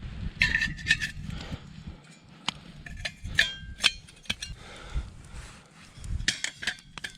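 Metal camp cooking gear clinking and knocking as it is handled and set down, several strikes ringing briefly, over a low rumble of wind on the microphone.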